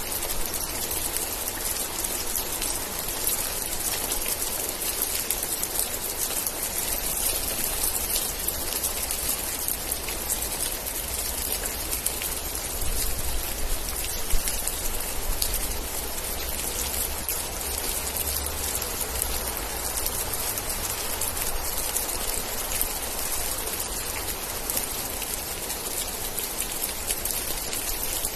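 Steady rain with a dense patter of raindrops and a low rumble underneath that swells in the middle. One louder drop strikes about halfway through.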